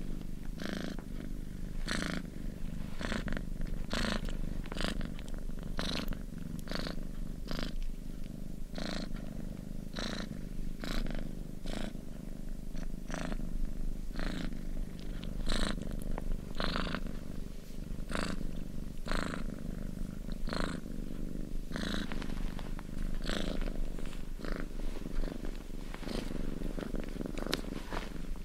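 Domestic cat purring: a steady low rumble with a short raspy pulse about once a second.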